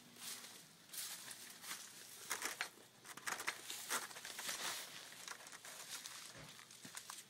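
Footsteps crunching unevenly on dry ground cover as a person walks.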